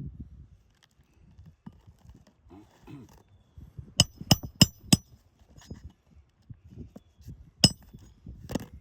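Hammer striking a roofing nail, metal on metal: four quick ringing strikes about four seconds in, then two more single strikes near the end.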